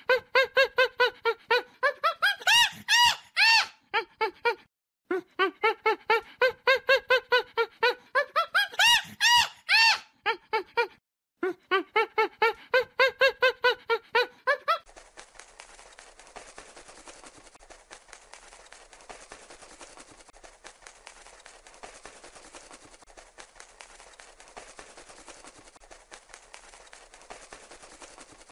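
Monkey calls: three runs of quick, short hoots that climb in pitch into shrill screeches. About halfway through they stop and give way to a faint, steady outdoor hiss.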